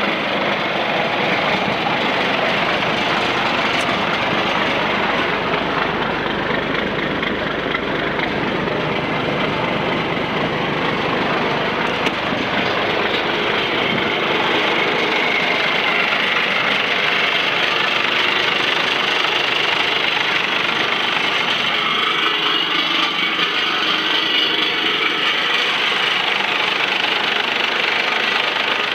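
1996 International 4700 truck engine running steadily.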